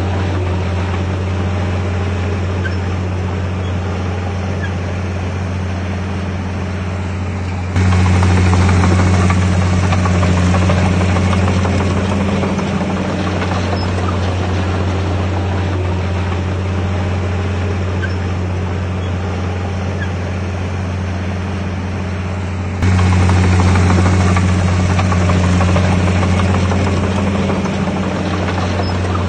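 Bulldozer's diesel engine running steadily with a deep drone. It gets abruptly louder about 8 s in and again about 23 s in, then eases back each time.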